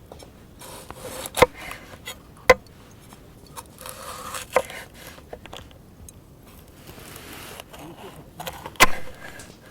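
A few sharp knocks, spaced unevenly, with rustling and scraping between them.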